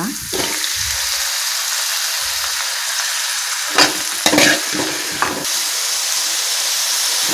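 Chopped tomatoes sizzling as they hit hot coconut oil in a steel kadai, a steady frying hiss. A metal spatula scrapes and knocks against the pan a few times about four to five seconds in as the tomatoes are stirred.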